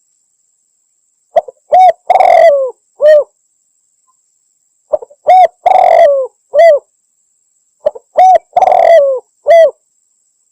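Spotted dove cooing: three identical phrases about three seconds apart. Each phrase is a short note followed by three coos, the middle coo longer and rougher with a falling end.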